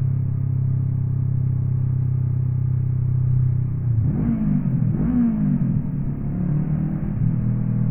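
Honda NX 500's parallel-twin engine running at a steady pace under way. About four seconds in, the revs dip and climb twice in quick succession, then settle to a steady note again.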